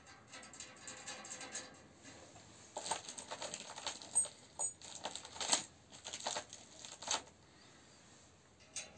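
Parts being handled during assembly of a cast-iron stove: a light rustling for the first two seconds, then a run of sharp clicks and knocks for about four seconds.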